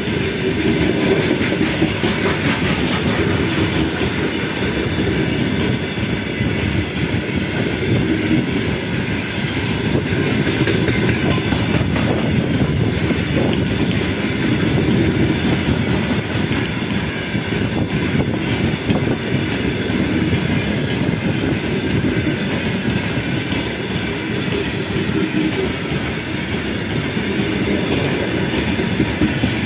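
Open-top gondola wagons of a long freight train rolling past, a steady rumble with the clickety-clack of wheels over rail joints.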